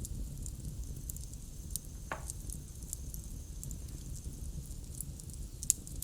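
Campfire crackling: scattered sharp pops and snaps over a steady low rumble, with one short falling squeak about two seconds in.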